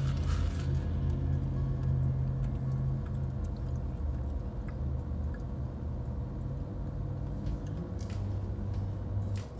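A person chewing and biting into a fried snack, with a few short crackles, over a steady low hum.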